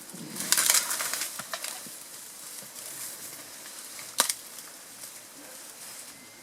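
Leafy vegetation crackling and rustling as stems are crushed and broken, loudest in a burst near the start, with one sharp snap of a stem about four seconds in.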